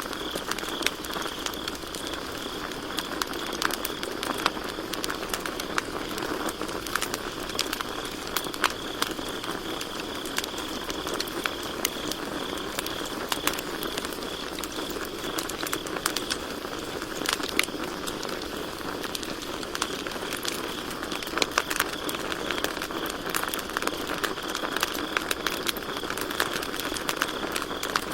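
Campfire crackling with frequent sharp, irregular pops over a steady low rush of burning wood. Crickets keep up a steady high chirring that dips in the middle and comes back stronger near the end.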